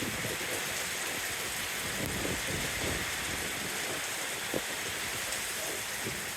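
Steady rain falling: an even hiss with scattered drop splashes, and one sharper tap a little past halfway.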